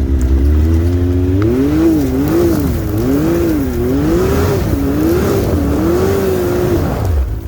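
UTV engine revved up and down about once a second, five or six times, as the machine struggles for traction on an icy slope, over the steady low drone of an idling engine.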